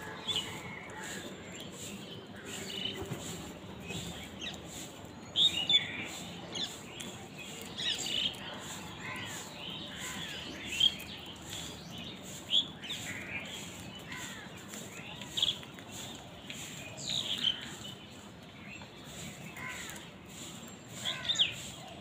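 Birds calling with short, sharp, falling chirps, many of them scattered through, the loudest about five to six seconds in and again near the end.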